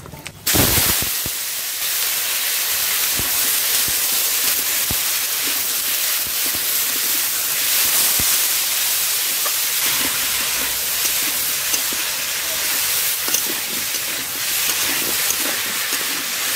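Cut hog plum (amra) pieces hitting hot oil with mustard seeds and dried red chillies in a kadai: a sudden loud sizzle about half a second in, then a steady frying hiss with the light scrape and tap of a spatula stirring.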